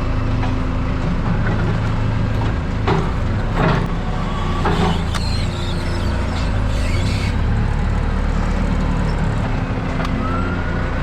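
Heavy truck engine idling steadily, with a few sharp clanks about three to five seconds in.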